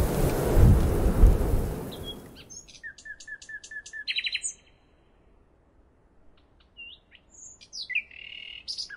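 A loud rushing noise fades out over the first two seconds. Then small birds chirp in quick runs of short, high notes, go quiet for a couple of seconds, and start chirping and trilling again near the end.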